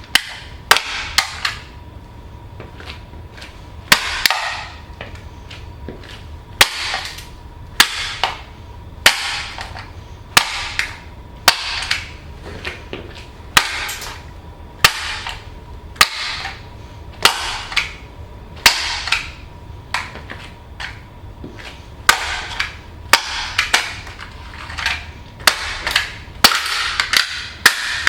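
Tall riding boots stomping again and again on a toy fire truck: sharp hard impacts about every second or so, many followed by a short crackle as the toy breaks up.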